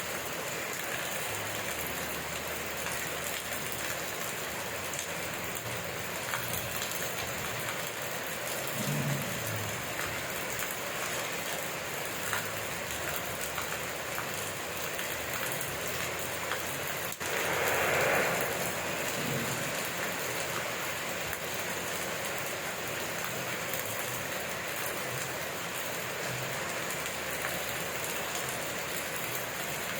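Steady rain falling, an even hiss of drops on surfaces, with a brief louder swell about two-thirds of the way through.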